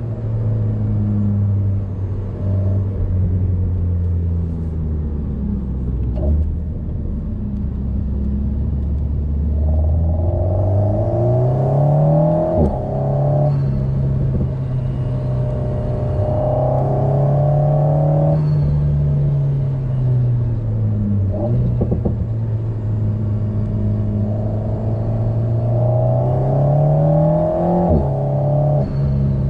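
Alpine A110's turbocharged 1.8-litre four-cylinder heard from inside the cabin while driving. The engine note rises under acceleration and falls back several times, with a few brief sharp sounds along the way.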